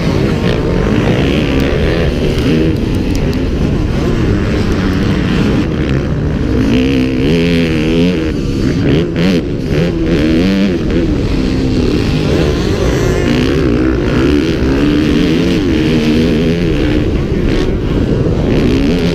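Motocross motorcycle engines running hard, the pitch rising and falling repeatedly as the throttle opens and closes, over a constant low rumble.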